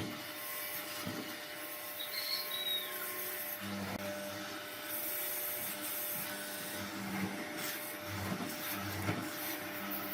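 A small power tool running while it works against wood, giving a continuous rubbing, grinding noise over a steady motor whine.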